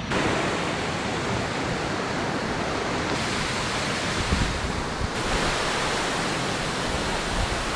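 Steady rushing noise, such as wind or running water, shifting abruptly in tone about three and five seconds in.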